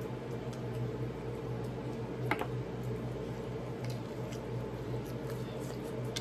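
Chewing and mouth sounds of someone eating fried chicken wings, with a few soft clicks and one sharper click about two seconds in, over a steady low hum.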